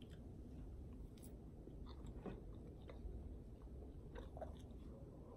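Faint chewing of a mouthful of waffle, with scattered small wet mouth clicks.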